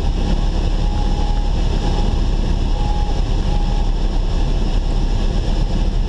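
Steady cabin noise of a Cessna 172 gliding down with its engine at idle: a constant rush of airflow over the airframe with the low drone of the idling engine and propeller.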